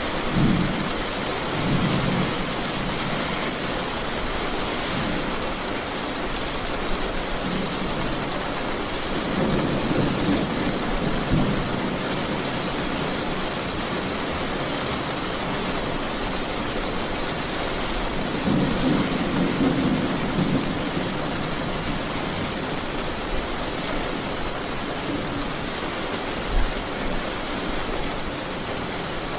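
Steady rain with thunder rumbling three times: just at the start, again about ten seconds in, and again about twenty seconds in.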